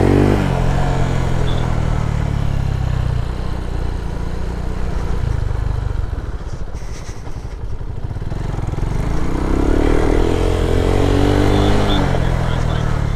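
Lifan KP motorcycle engine running under way. Its pitch drops just after the start, holds fairly steady, then rises and falls again from about nine seconds in.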